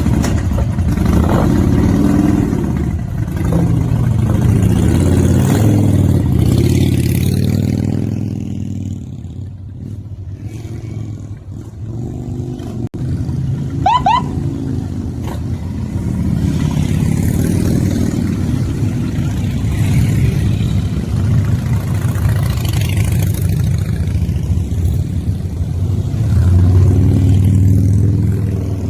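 Several motorcycle engines running while they warm up, the throttle blipped so the sound swells and falls, easing off for a few seconds in the middle before building again. A short rising chirp cuts through about halfway.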